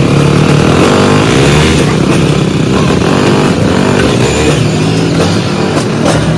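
Several enduro motorcycle engines running together and revving, their pitch rising and falling as the throttles are blipped.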